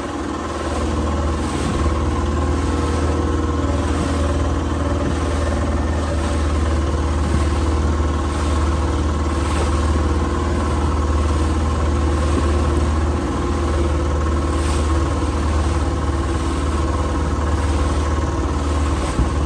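Motorboat engine running steadily: a deep, even hum with steady higher drone tones over it. It grows slightly louder about a second in.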